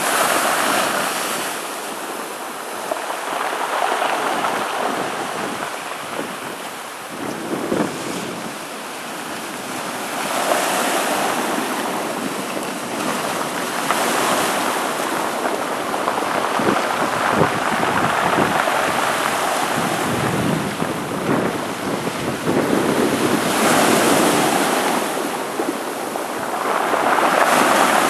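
Storm surf from a hurricane surging and crashing against shoreline rocks, rising and falling in repeated swells every few seconds. Wind buffets the microphone.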